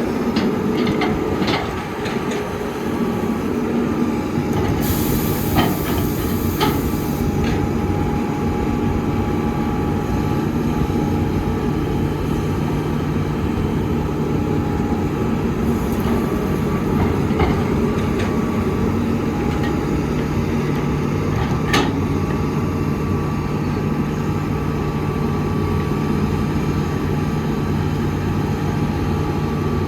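Heavy diesel construction machinery running steadily, with scattered sharp metallic clanks and a brief hiss about five seconds in.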